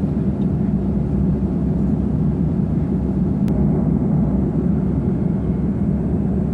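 Steady low rumble of an Airbus A330 jet airliner in cruise: the even drone of engines and airflow heard from inside the cabin.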